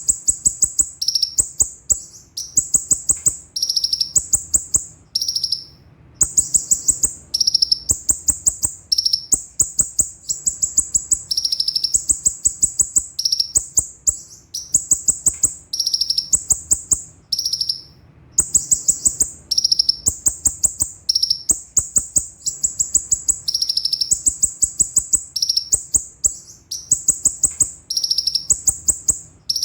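A konin (kolibri ninja) sunbird singing fast, high-pitched rolling trills in rapid phrases about a second long, one after another with short breaks between them.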